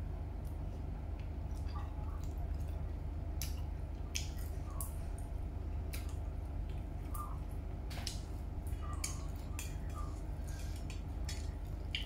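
Close-up eating sounds of a person chewing bakso meatballs: wet chewing and mouth clicks, many short, irregular ticks scattered through, over a steady low hum.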